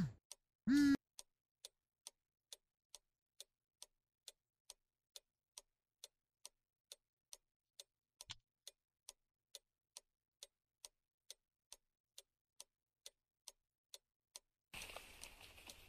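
A clock ticking steadily, about two ticks a second. A short buzzing tone sounds just under a second in, and there is a soft knock about eight seconds in. Near the end comes a sudden hiss that fades over about two seconds as the cigarette is lit.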